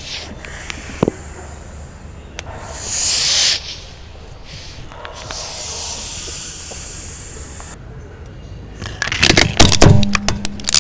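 Two hissing rushes, then, about nine seconds in, a rapid run of sharp cracks and crunches: plastic toys splitting under a slowly rolling car tyre.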